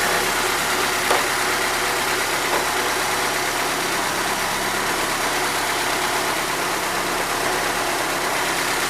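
Car engine idling steadily, with a small click about a second in.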